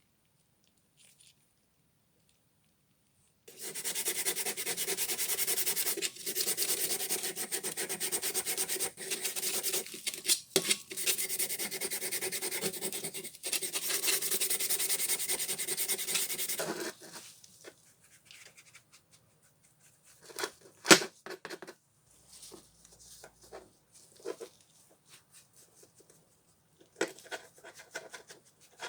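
Steady abrasive rubbing as rust is scoured off a pressed-steel spanner, running for about thirteen seconds with a few brief breaks. It is followed by scattered light clicks and knocks of handling, one sharper click among them.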